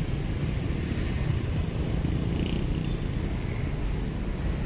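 Steady low rumble of railway traffic, with an approaching diesel locomotive in view. It holds at an even level with no distinct knocks or horn.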